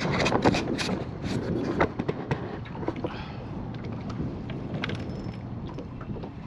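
Wind buffeting and water slapping against a small fishing boat, with a cluster of sharp knocks and clicks in the first two seconds.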